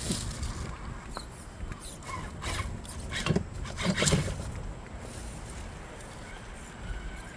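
A 1/10-scale RC rock crawler working over the rock course: scattered clicks and scrapes of tyres and chassis on rock, mostly a few seconds in, over a low steady rumble.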